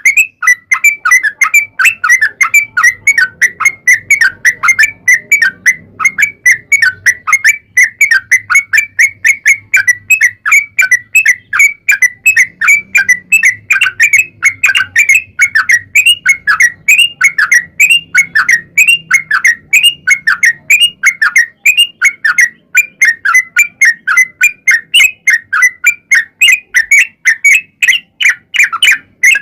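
Yellow-vented bulbul (trucuk) song in a long, unbroken run of rapid repeated chirping notes, about four a second.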